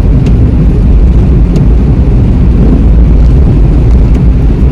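Road and engine noise inside a moving car's cabin: a loud, steady low rumble.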